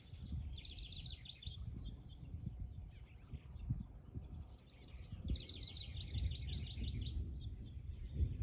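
Songbird singing two fast, high trills of rapidly repeated notes, a short one about half a second in and a longer one a little after five seconds, over a low rumbling background noise.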